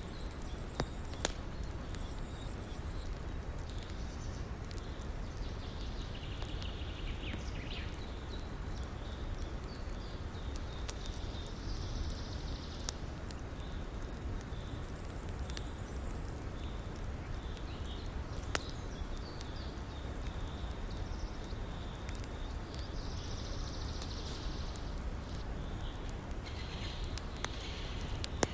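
Campfire crackling, with scattered sharp pops, over the steady rush of a flowing river. A few faint high chirps come and go.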